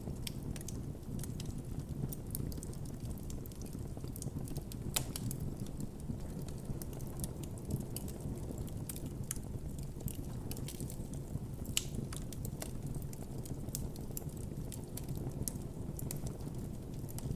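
Campfire burning: a steady low rush of the flames with frequent irregular crackles and pops from the wood, a couple of sharper pops standing out about five seconds in and near twelve seconds in.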